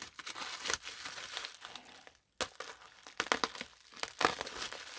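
Wrapping on a magazine package crinkling and tearing as it is unwrapped by hand: irregular crackles and rustles, with a short pause a little after two seconds.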